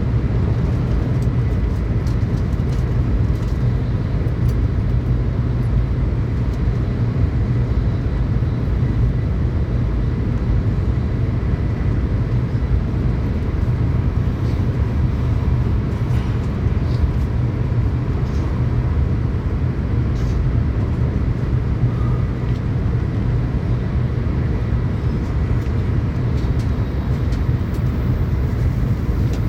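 Steady low rumble of a Tokaido Shinkansen running at speed, heard from inside the passenger cabin, with a few faint ticks.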